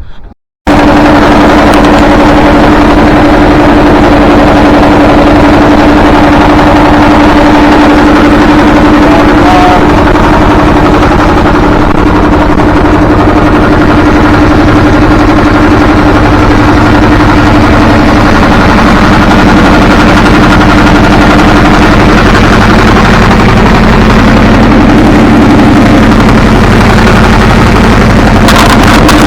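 Boat engine running steadily at speed, very loud and distorted on the microphone. It cuts in sharply just under a second in.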